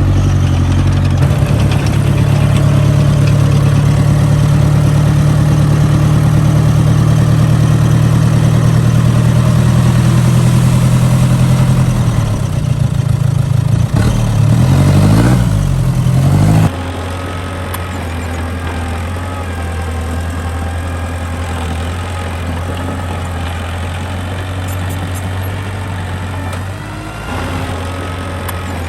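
Construction machine's diesel engine running loud and steady. Past the middle its pitch swings up and down for a few seconds, then it suddenly drops to a quieter, steady, lower running sound.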